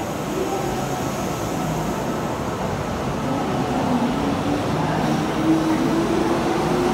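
Kintetsu limited express train ('Sunny Car' set) departing and accelerating past the platform. There is a steady running rumble, and from about halfway in a motor whine rises in pitch as the train gathers speed.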